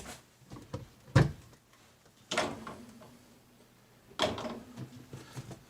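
Dishwasher parts being handled: a sharp knock about a second in, then two longer clattering scrapes that die away, as the rack and filter pieces are pulled and lifted.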